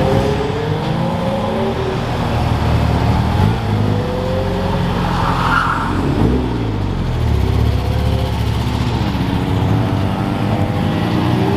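Several car engines running at once, with engine notes rising and falling as cars rev and pull away across a parking lot. A brief higher-pitched burst comes about halfway through.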